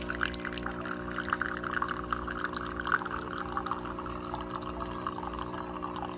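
Jura Impressa F9 automatic coffee machine running: a steady motor hum with a dense crackle over it.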